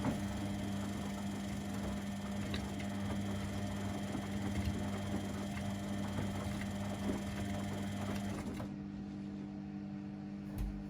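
Domestic washing machines and tumble dryers running together: a steady motor hum with a higher whine and hiss that cut off about three-quarters of the way through, and a soft knock near the end.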